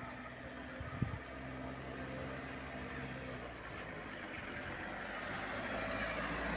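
A motor running with a steady low hum, under a broad rushing noise that slowly grows louder, with a single knock about a second in.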